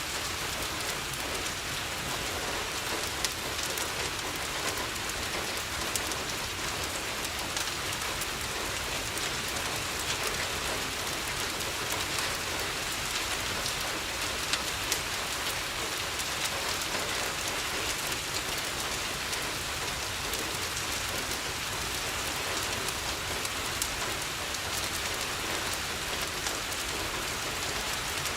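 Steady rain falling on a window, an even hiss with scattered sharp ticks throughout.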